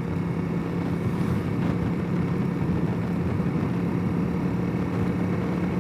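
Honda CRF300L's single-cylinder four-stroke engine running steadily at low, even revs, heard through the helmet microphone with rain hitting the helmet as a steady hiss.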